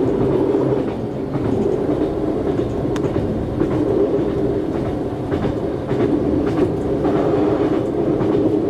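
Regional passenger train running at speed, heard from inside the carriage: a steady rumble of wheels on rail with scattered sharp clicks of the wheels over rail joints.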